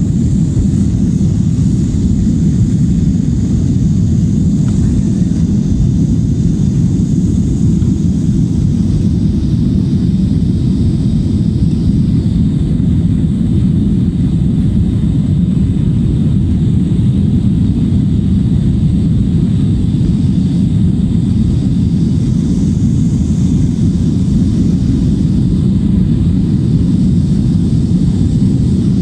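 Airliner cabin noise in flight: a steady low rumble of engines and airflow, heard from inside the cabin, with a faint hiss above it.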